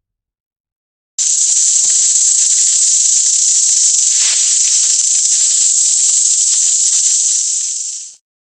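A loud, steady high hiss that starts suddenly about a second in and fades out near the end.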